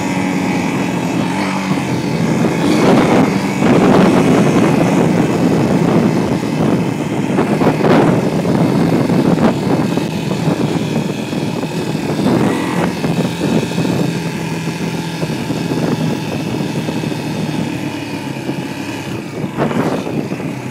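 Dirt bike engine running at a fairly steady pitch, with louder rough noisy surges about three to four seconds and eight seconds in.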